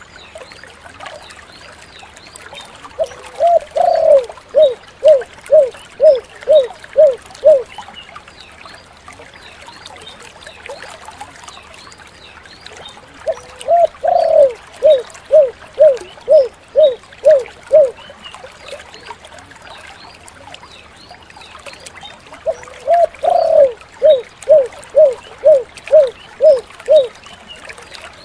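Spotted dove (tekukur) singing three cooing phrases about ten seconds apart. Each phrase opens with a longer, rising coo and runs on in a quick string of about eight short, even coos, over a faint steady hiss.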